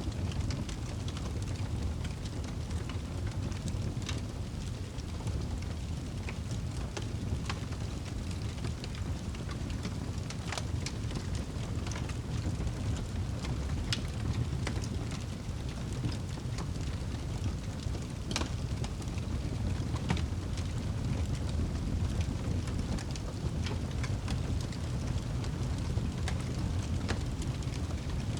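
Wood fire burning in a fireplace: a steady low rumble of the flames with scattered sharp crackles and pops from the burning wood, a few each second.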